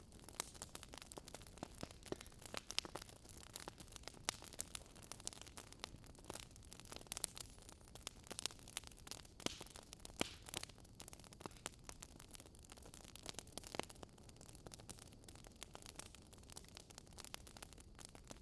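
Faint crackling wood fire: irregular sharp pops and snaps, several a second, over a low steady hiss.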